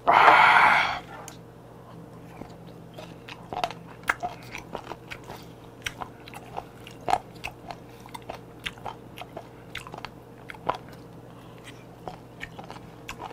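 A loud breathy exhale about a second long at the start, then close-miked chewing and biting of seasoned raw chicken feet, with many short, irregular crunchy clicks.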